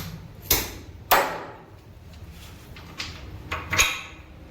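Sharp metal knocks and clanks from tools working the bolts on a transformer tank while its nuts are tightened: a few separate strikes, the loudest about a second in with a short ring.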